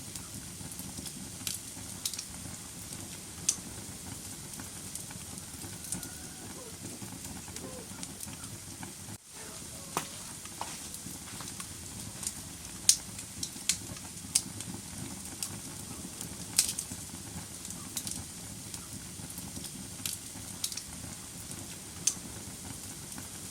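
Wood fire in a fireplace crackling: irregular sharp pops over a steady hiss, with a momentary dropout about nine seconds in.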